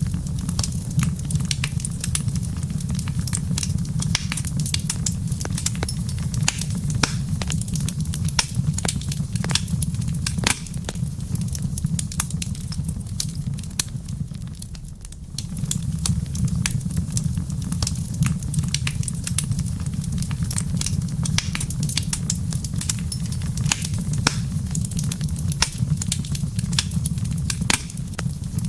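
Wood fire in a fireplace crackling, with frequent sharp pops over a steady low rumble of the flames; the rumble eases briefly about halfway through.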